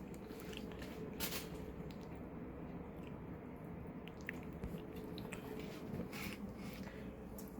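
Faint wet chewing and munching of food close to the microphone, with scattered small clicks and squishes over a low steady hum.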